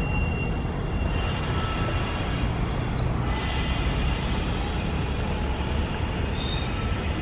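Steady rumble of a passenger train running, with wheel noise and wind, heard from on board.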